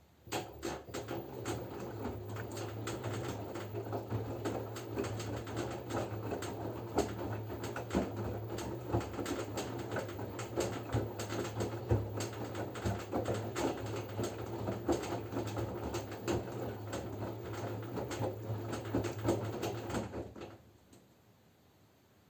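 LG F10B9LD front-loading washing machine in its wash phase: the drum turns for about twenty seconds, laundry and water tumbling with many small clicks and knocks over a steady motor hum, then stops.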